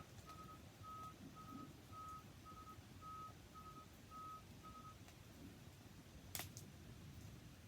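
Faint electronic beeping at one steady pitch, in a long-short pattern of about two beeps a second, repeating for about five seconds and then stopping. It sits over a low rumble, with a single sharp snap near the end.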